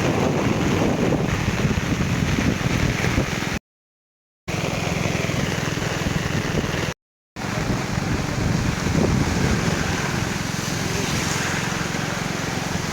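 Steady rushing of a rain-swollen river, with wind buffeting the microphone, cut by two brief dropouts to silence.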